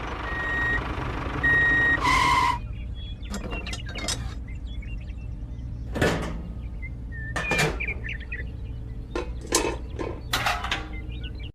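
Short electronic beeps, one louder near two seconds in, followed by scattered light clicks and taps.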